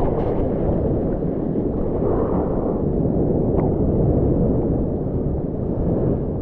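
Wind buffeting the action camera's microphone: a steady low rumble with no pitch.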